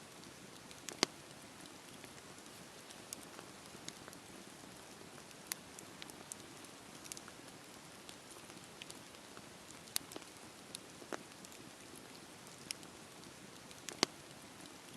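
Wood fire crackling: a steady soft hiss of burning with irregular sharp pops and snaps, the loudest about a second in and near the end.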